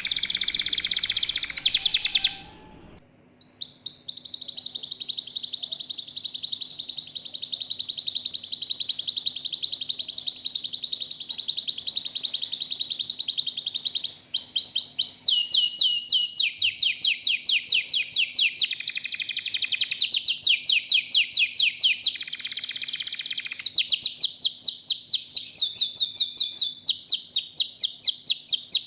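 Domestic canary (local kenari) singing long rolling trills of rapid high notes, with a brief break about three seconds in; from about halfway the phrases turn to louder, more clearly separated repeated notes. A faint steady low hum runs underneath.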